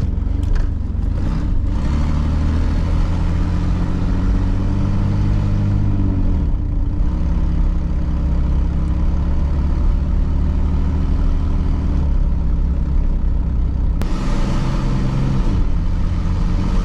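2002 Chevy Blazer's 4.3L Vortec V6 running loud on the road, its exhaust blowing straight out of the open O2 sensor ports ahead of the catalytic converters. The engine note dips briefly about six seconds in and changes again near fourteen seconds. Running freely with the exhaust let out before the cats, which the owner takes as proof that the catalytic converters are clogged.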